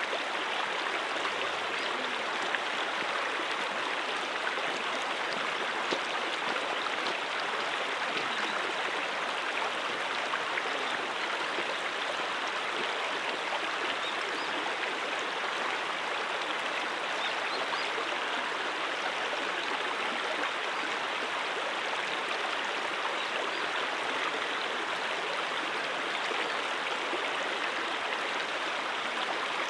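Mountain stream flowing over rocks, a steady rushing and babbling of water.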